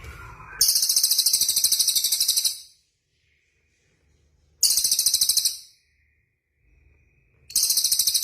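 Small songbird singing three bursts of a very high, rapid trill, the first about two seconds long and the next two shorter, with short pauses between them.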